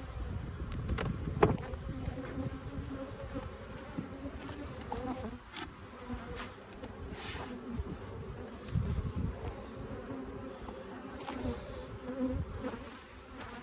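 A mass of honeybees buzzing around an open hive in a steady, wavering hum, the colony agitated and getting rather angry. A few sharp clicks and knocks sound over it, about a second in and again near the middle.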